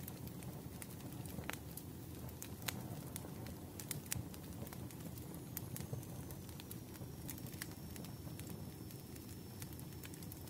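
Crackling wood fire: a steady low rumble of flames with scattered sharp pops and crackles, a few of them louder in the first four seconds.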